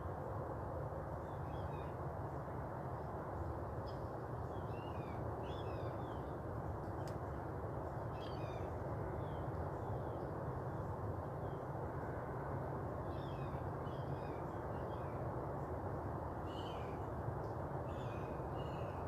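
Outdoor dawn ambience: a steady low background noise with short bird calls chirping on and off above it, in two busy spells.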